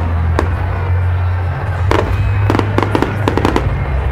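Fireworks going off: an irregular run of sharp cracks and bangs, several a second at times. They sound over music with a deep bass line that steps from note to note.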